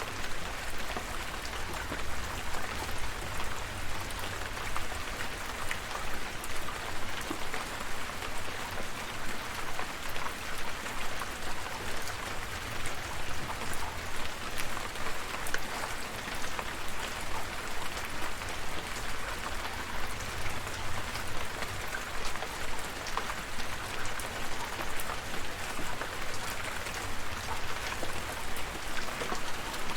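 Steady rain falling, an even patter of drops with a low rumble underneath.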